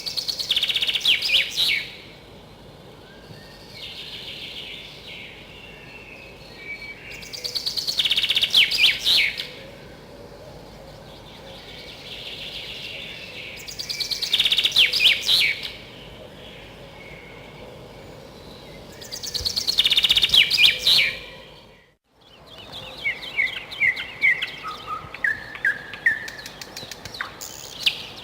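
A songbird singing the same loud phrase of about two seconds four times, roughly every six seconds, each phrase building toward its end. After a brief dropout, a run of quicker separate chirps follows, some stepping down in pitch.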